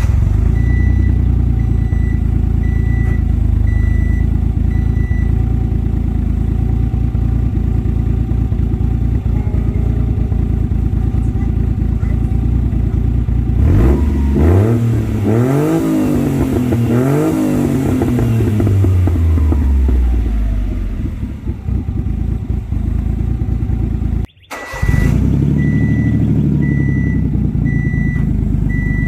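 Exhaust note of a 1995 Honda Acty HA4's small three-cylinder engine through an aftermarket dual-muffler exhaust. It idles, is revved up and down a few times about halfway through, then drops back to idle. A steady repeating beep sounds over the idle at the start and again near the end.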